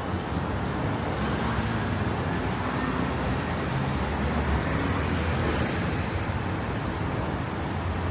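Road traffic noise: a steady wash of passing cars, swelling briefly as one passes close about five seconds in.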